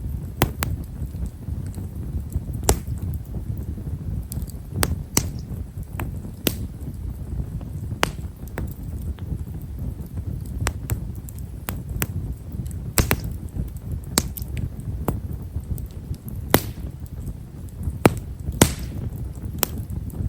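Japanese stewartia (hime-shara) firewood burning in an open fire: a steady low rumble of flames with small, fine crackles and pops at irregular intervals, a few sharper ones, and a brief hiss near the end.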